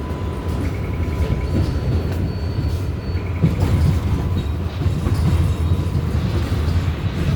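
R188 subway car running along the track: a steady low rumble with scattered clicks from the wheels and a few faint high tones.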